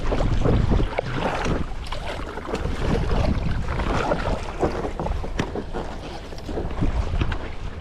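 Wind buffeting the microphone, with water splashing and lapping against a stand-up paddleboard out on the sea.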